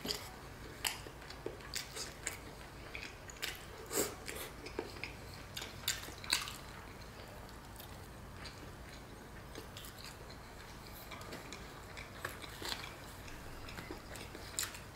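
Close-miked eating sounds: a person chewing a mouthful of spiced rice and chicken with short wet smacks and clicks. These come thick in the first half, thin out in the middle and pick up again near the end.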